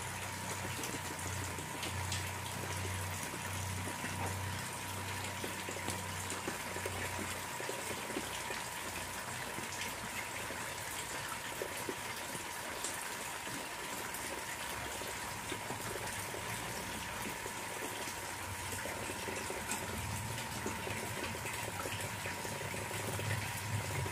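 Heavy rain falling onto a garden fish pond's water, a steady hiss of rain. A low rumble builds near the end.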